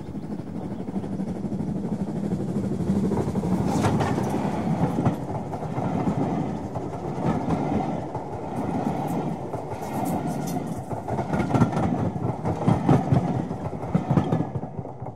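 A train passing, its wheels clicking irregularly over rail joints above a steady running rumble, dropping away near the end.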